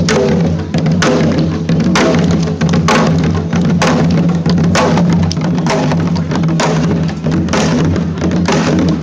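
A percussion ensemble playing live, many drums struck fast and loud, with heavy accents about once a second.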